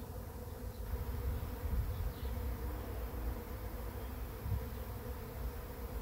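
A swarm of honeybees buzzing steadily as it moves into a swarm trap: a dense, continuous hum of many wingbeats, with a low, uneven rumble underneath.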